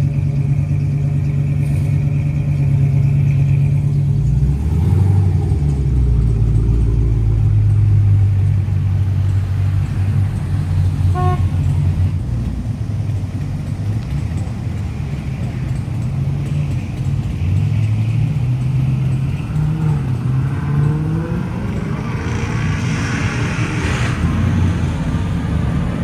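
Car engines running and revving as cars drive past, their pitch rising and falling, with a brief horn toot about halfway through.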